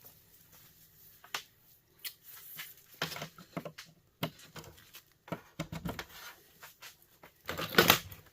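Hand tools and plastic heater parts being worked during teardown: scattered sharp clicks and short scrapes, with the loudest scrape or clatter near the end.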